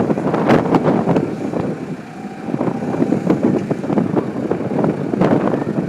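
Burning garbage truck: a dense, continuous crackle of the fire with several sharp pops standing out, the clearest about half a second in and again about five seconds in.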